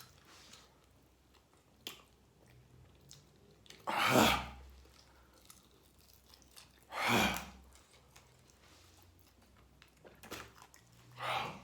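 A person chewing spicy chicken wings, with faint clicks of chewing throughout, and three loud, sharp, breathy bursts about three to four seconds apart, like hard breaths or sniffs against the heat of the spice.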